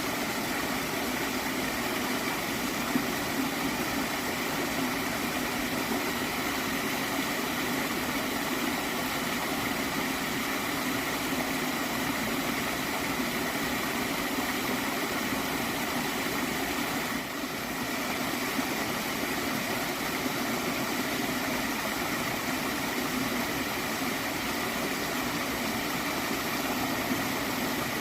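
Small water stream flowing and gurgling steadily, with a brief dip in level about two-thirds of the way through.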